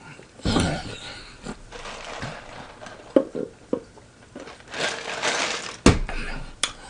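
A person eating close to the microphone: chewing and crunching in several noisy bursts, with a few sharp mouth clicks.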